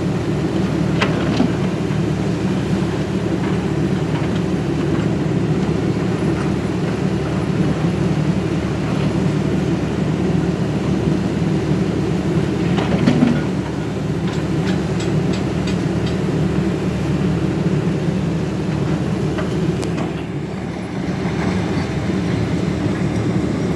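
Caterpillar 320D hydraulic excavator's diesel engine running steadily, with a few short knocks and clanks from the machine over the constant low rumble.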